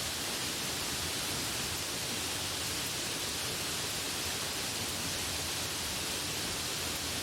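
Steady rain falling: an even, unbroken hiss of rain with no thunder or separate drops standing out.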